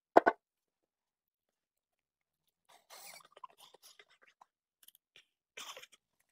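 A loud knock right at the start. After a short quiet, a raw potato is bitten into and chewed close to the microphone, with scattered crisp crunches from about three seconds in.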